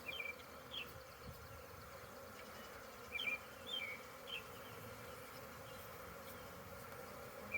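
Steady hum of many honeybees buzzing around an open hive. A few short, high, falling chirps stand out over it, near the start and again about three to four and a half seconds in.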